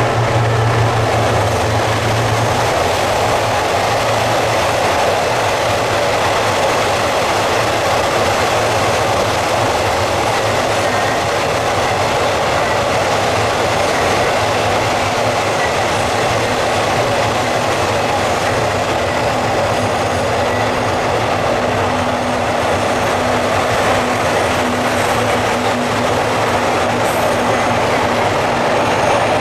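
Train running on rails: a steady, loud rumble of wheels and rail noise, with a faint steady tone coming in about two-thirds of the way through.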